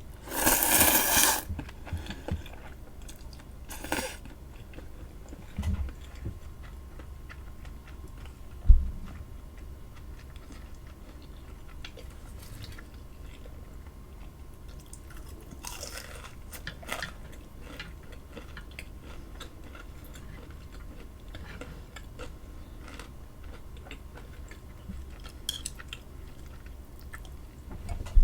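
Close-miked chewing and crunching of food, with many small crisp clicks and a few louder crunchy bites: about a second in, at about four seconds and around sixteen seconds. A single dull thump comes about nine seconds in.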